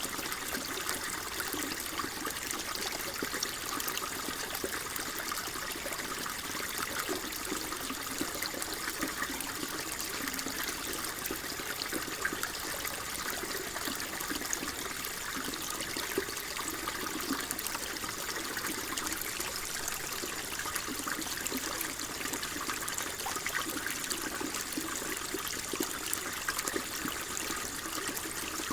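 Flowing water running steadily, a constant trickle with bubbling low in the sound.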